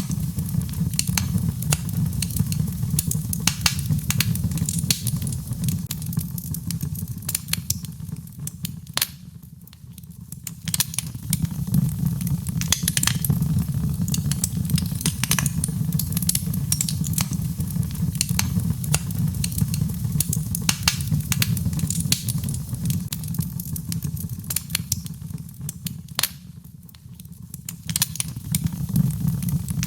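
Birchwood fire burning in a fireplace, crackling and popping over a steady low rumble; the crackling thins out briefly twice, about a third of the way in and near the end.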